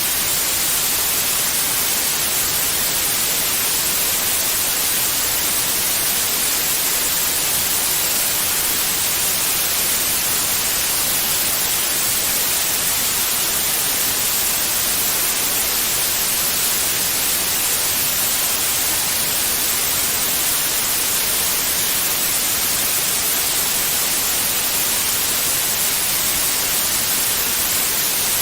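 Steady white noise, an even hiss with no changes.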